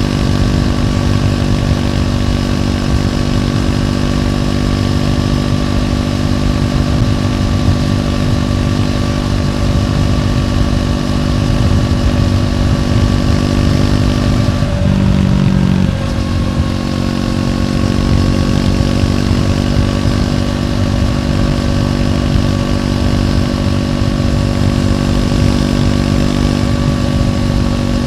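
Triumph Scrambler 400X's single-cylinder engine running through its stock exhaust at a steady pitch while riding. About halfway through, the pitch dips briefly, then settles back to a steady run.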